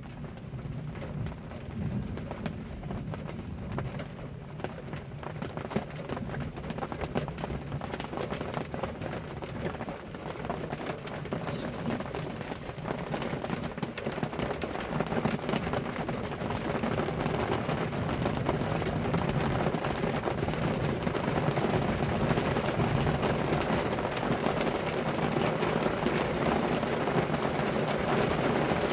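Heavy rainstorm: rain pouring down with a dense hiss of drop impacts, growing louder about halfway through as the downpour intensifies.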